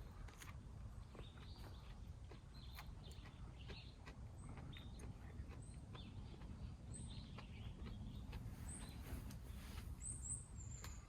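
Small birds chirping faintly: short high calls repeating every second or so, with other chirps lower down, over a low steady outdoor rumble and scattered faint clicks.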